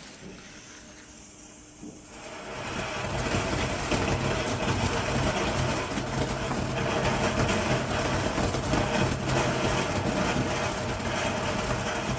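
Firework fountain burning with a steady hiss and low roar, catching about two and a half seconds in after a quiet lead-in.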